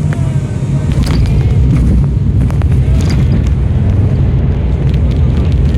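Cabin noise of an ATR-72 twin turboprop airliner: a loud, steady low rumble of engines and airframe, with a few brief knocks and rattles.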